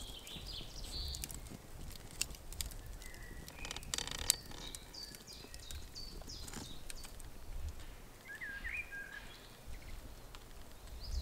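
Small woodland birds chirping and warbling on and off over a low outdoor rumble, with scattered light clicks and a sharper click about four seconds in.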